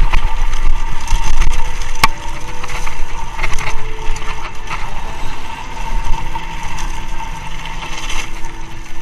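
Mountain bike rolling over a rough trail: wind rumble on the camera microphone, with the bike clattering and rattling over the bumps.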